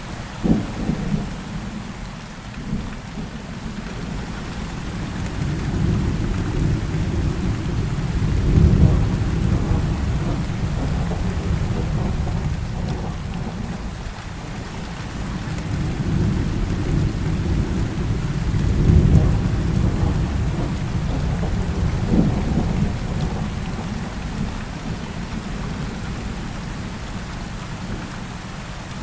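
Heavy rain falling steadily, with thunder rolling under it: a sharp crack just after the start, then long low rumbles that swell and fade twice, loudest about a third of the way in and again about two thirds in, and another crack a little later.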